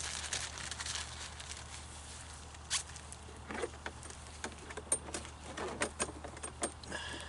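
Scattered light clicks, taps and rustles of hands handling small parts and tools.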